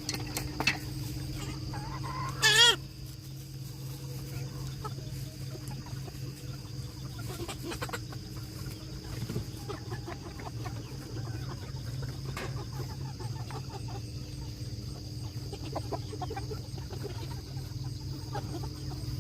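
Broiler chickens clucking, with one loud wavering call about two seconds in and scattered shorter calls after it. A steady insect chirring runs underneath.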